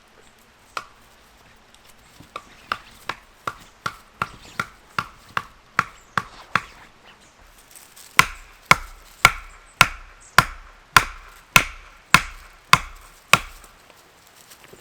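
A hammer driving a metal tent peg into the ground, each blow ringing briefly. After one lone strike comes a run of lighter, quicker taps, then heavier blows about two a second.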